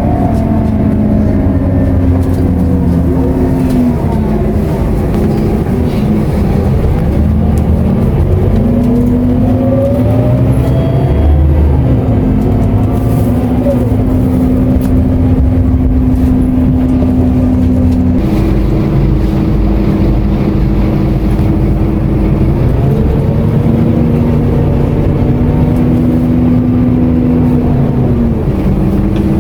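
Scania K230UB city bus diesel engine heard from on board while driving. Its note holds steady, then rises and falls, with several steps in pitch as the automatic gearbox changes gear.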